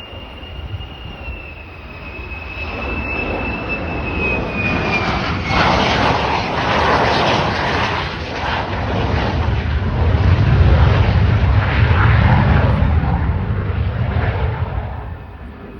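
F-35A Lightning II jet on landing approach, its single Pratt & Whitney F135 turbofan passing. A high steady whine gives way about five seconds in to loud jet noise that builds, peaks about two-thirds through and fades near the end.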